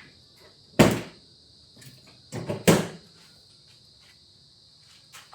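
Two sharp knocks about two seconds apart, the second with a smaller knock just before it, as metal motorcycle steering parts are handled and set down on a workbench. A faint steady high-pitched hiss runs underneath.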